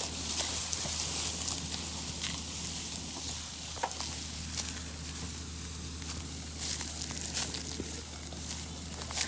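Tractor diesel engine running steadily at idle as a low hum, with scattered light clicks and rustles over it.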